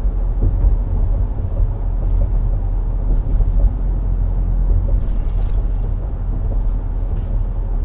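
Steady low rumble of engine and road noise inside the cab of a moving 2014 Dodge Ram 1500 pickup with a 5.7 L Hemi V8.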